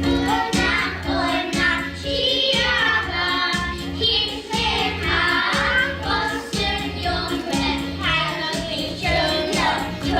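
A group of young children singing a song together over a backing track with a steady beat.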